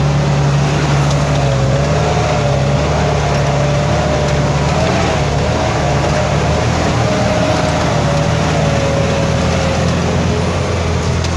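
Truck engine running steadily while under way, with a thin whine that slowly wavers up and down in pitch.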